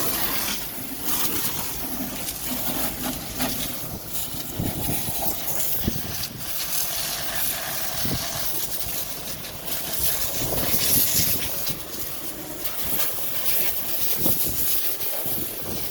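Water spraying onto a vehicle being washed: a continuous hiss that swells and dips as the jet moves.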